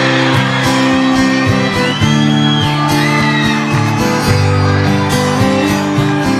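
Guitar strumming the opening chords of a folk song, starting suddenly at the beginning, with a few whoops from the audience over it a couple of seconds in.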